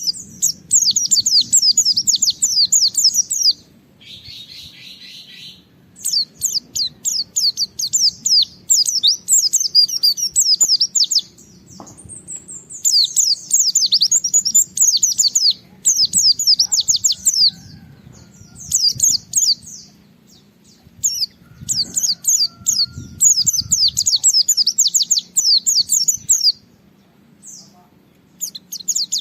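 A pleci (white-eye) singing hard in its challenging song: rapid, high-pitched twittering made of fast downward-sweeping notes, in phrases of a few seconds broken by short pauses, with one harsher, scratchier burst about four seconds in.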